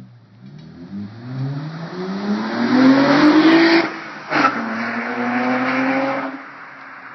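2004 Acura TL's J32 3.2-litre V6 with the rear muffler deleted, accelerating hard with its pitch climbing. The pitch drops sharply about four seconds in, then holds a steady note before the engine eases off and goes quieter near the end.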